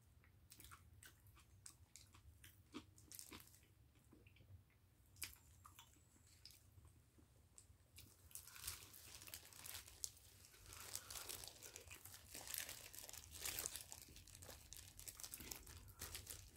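Faint close-up eating sounds of boiled sweet potato, skin on, being chewed: scattered soft mouth clicks, then a bite about eight seconds in and busier, denser chewing after it.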